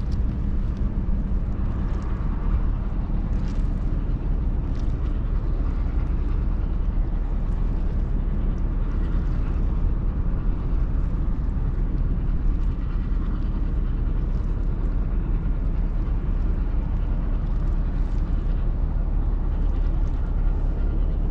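Steady low rumble of a Ro-Ro passenger ferry's engines, with a rushing noise over it and a few faint ticks.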